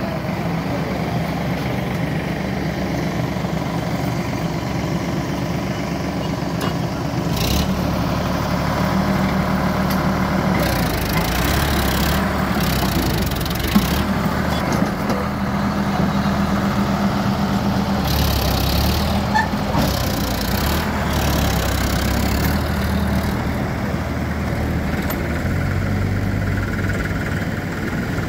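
Swaraj 735 tractor's three-cylinder diesel engine running under load while hauling a fully loaded trolley, its note shifting a few times, with several short bursts of rushing noise over it.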